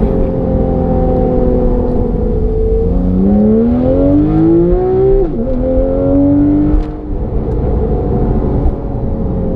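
Porsche 991 Carrera GTS flat-six engine through a Fabspeed valved exhaust, running steadily while driving, then accelerating from about three seconds in with its pitch rising. A quick upshift drops the pitch just past five seconds, it pulls up again, and it eases off near seven seconds before settling back to a steady note.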